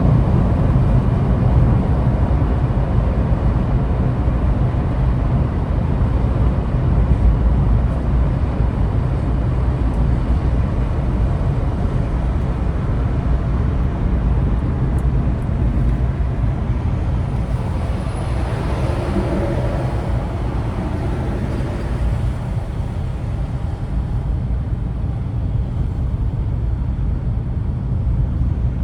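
Car driving in slow traffic: a steady low rumble of engine and road noise. About two-thirds of the way in, a louder whoosh swells and fades.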